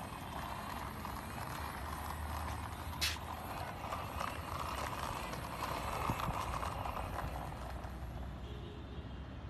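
Plastic toy tow truck's wheels rolled by hand over a hard surface, a continuous rattling rumble with a single sharp click about three seconds in.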